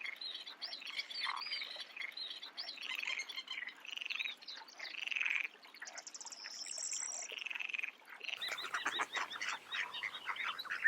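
Birds chirping and calling in quick repeated notes, several at once; near the end a different recording takes over with denser chattering.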